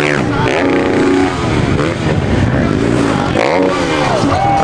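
Dirt bike engines revving hard, several overlapping, with pitch rising and falling as the throttle is worked.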